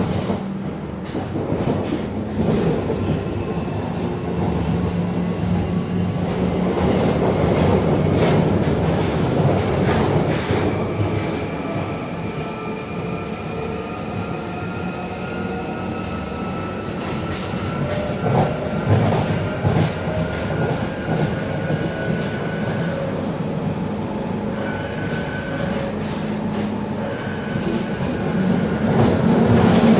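London Underground 1996 Tube Stock train heard from on board while running: a steady rumble of wheels on rail with occasional clicks over joints. Through the middle, a thin whine from the train rises slowly in pitch as it gathers speed.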